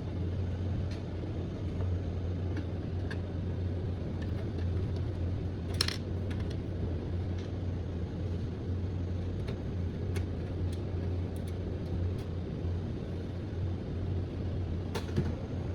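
Scattered light clicks and taps of screws and metal parts being handled inside a desktop computer case, about one every second or two and the clearest about six seconds in, over a steady low hum.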